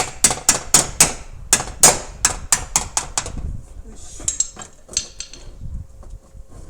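Panel-beating hammer striking the sheet metal of a Toyota Mark X's body panel near the headlamp, about ten sharp ringing blows at roughly three a second, then a few lighter taps: body work knocking a dent back out.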